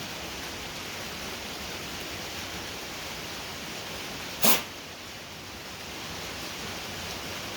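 Steady hiss of heavy rain, with one short, sharp, loud sound a little past halfway through.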